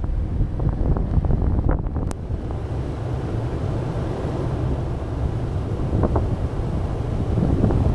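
Wind buffeting the microphone in a snowstorm: an uneven, low rumbling that rises and falls throughout, with a few short ticks a couple of seconds in and again about six seconds in.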